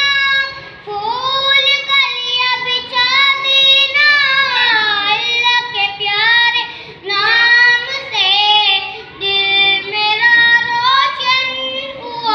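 A child singing a melody solo, with held and gliding notes and short breaks between phrases.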